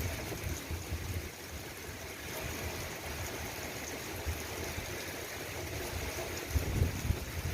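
Steady rain falling, an even hiss and patter, with low gusty rumbles near the start and again near the end.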